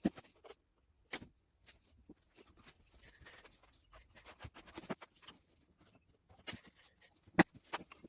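Scattered light knocks and taps of wooden pieces being handled during assembly, a few seconds apart, with a sharper knock near the end.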